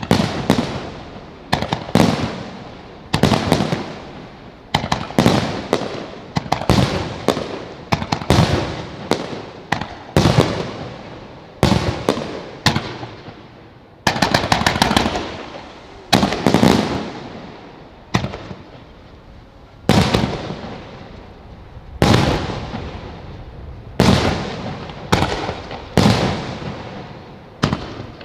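Starmine fireworks barrage: aerial shells bursting in quick succession, a loud bang every second or so, each echoing away, with clusters of rapid crackling shots in between.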